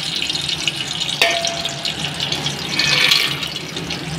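Desi ghee sizzling in an aluminium pressure cooker as makhana (fox nuts) go in to fry. A sharp clink about a second in, and the sizzle grows louder around three seconds.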